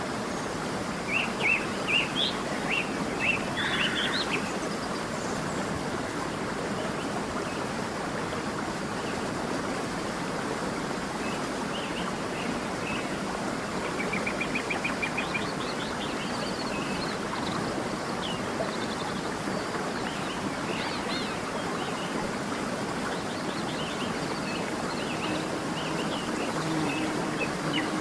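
A steady rush of running water with small birds chirping over it. There are scattered chirps in the first few seconds, a fast trill about halfway through, and more calls toward the end.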